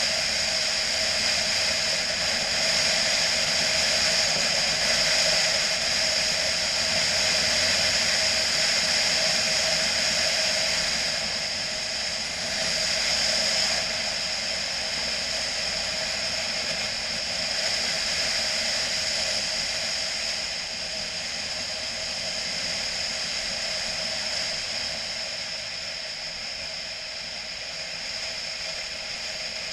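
Steady rush of wind and road noise from a motorcycle on the move, with an even drone underneath that swells and eases slightly.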